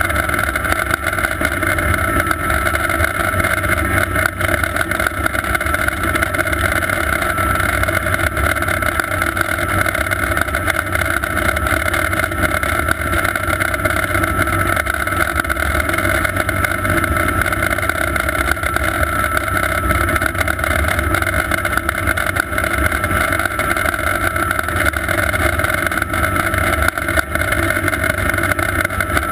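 Sikorsky S-58T twin-turbine helicopter running steadily: a constant high turbine whine over a low rumble, with no change in pitch or level.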